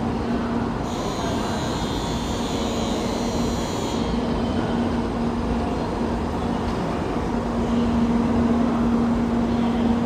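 700 series Shinkansen train running at the station with a steady rumble and a low, steady hum, plus a higher hiss for a few seconds near the start.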